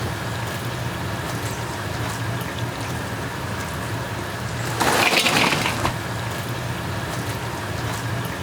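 Deep-fried dumplings (yaki-mandu) sizzling in a cauldron of hot oil, a steady crackle with scattered pops. About five seconds in, the sizzling surges louder for about a second.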